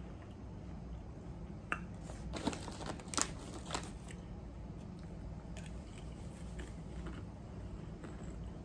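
Ruffles potato chips being bitten and chewed, with a cluster of sharp crunches about two seconds in, then fainter crunching.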